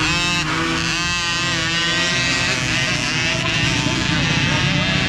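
A pack of small peewee dirt bikes revving hard and accelerating away from the starting line together. Several engines rise and shift in pitch at once.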